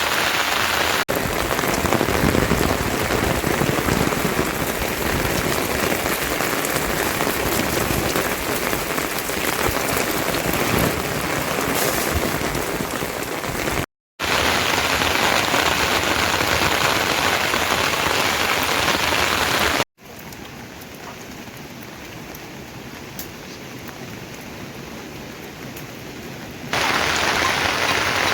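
Heavy rain falling, a steady hiss of drops on surfaces. The sound cuts out briefly twice, about 14 and 20 seconds in, and is quieter for several seconds before it comes back loud near the end.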